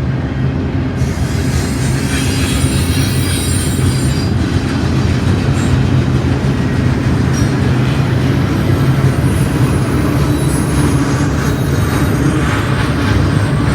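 Freight train cars rolling past on the rails, a steady heavy rumble, with high-pitched wheel squeal on the rails starting about a second in.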